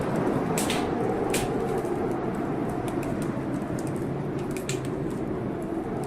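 Wood fire crackling in a fireplace, with scattered sharp pops, the loudest about half a second and a second and a half in, over a steady howl of blizzard wind.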